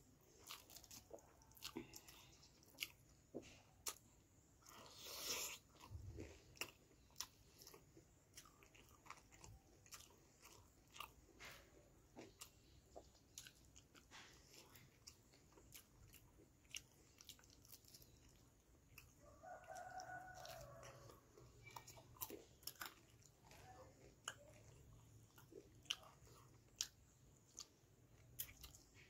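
Close-up chewing and wet mouth sounds of someone eating rice and chicken curry by hand, with many small smacks and clicks. A brief louder noise comes about five seconds in, and a chicken calls once, briefly, about twenty seconds in.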